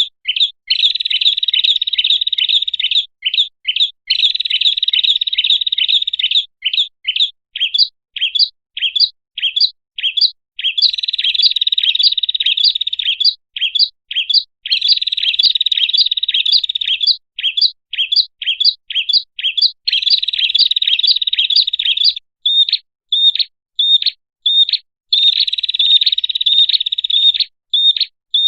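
Prenjak (prinia) song played as a bird lure: long runs of rapid, buzzy chattering notes alternate with series of separate sharp notes at about two or three a second.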